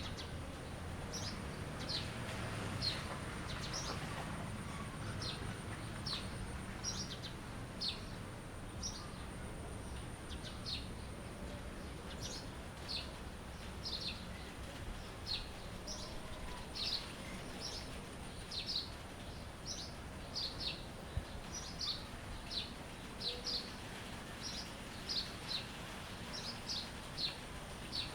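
A songbird chirping: short, high notes repeated about once a second, some in quick pairs, over a low background rumble.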